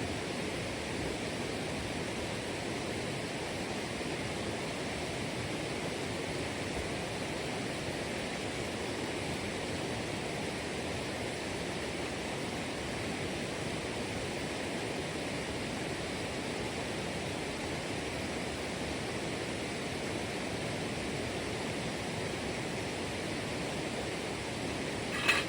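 Steady rushing of flowing water. Just before the end comes one brief, sharp high sound, louder than the water.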